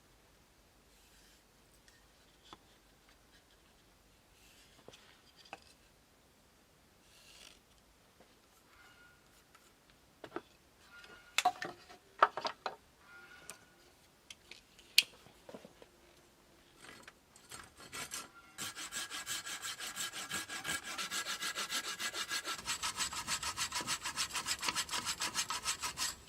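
Hand tool cutting wood with fast, even back-and-forth strokes, most likely a hand saw, that start about three-quarters of the way in and stop just before the end. Before that there are scattered sharp clicks and knocks of wood being handled.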